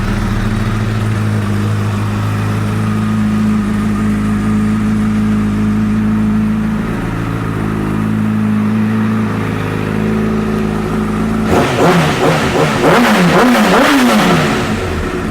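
2013 Honda CBR1000RR's inline-four engine, breathing through an aftermarket Yoshimura exhaust, idling steadily. About eleven seconds in it is blipped several times in quick succession, the pitch jumping up and dropping back with each rev.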